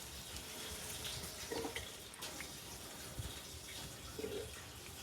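Gasoline pouring from a 5-gallon gas can into a new, empty fuel tank: a steady liquid rush with a couple of short gurgles as the can glugs.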